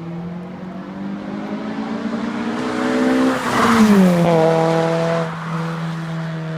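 Car engine and exhaust droning. The pitch creeps up, then drops sharply about halfway through, where the sound is loudest, and then holds steady at the lower pitch.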